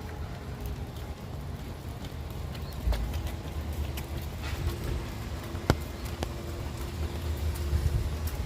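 Rainy street ambience: rain with wind rumbling on the microphone and passing traffic, a steady low hum from about three seconds in, and a few sharp taps, the loudest near six seconds in.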